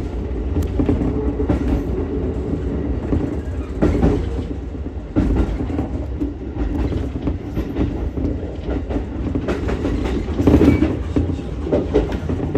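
Ichibata Electric Railway 7000-series electric railcar running along the track: a steady rumble of wheels on rail, with occasional clacks as the wheels pass over rail joints.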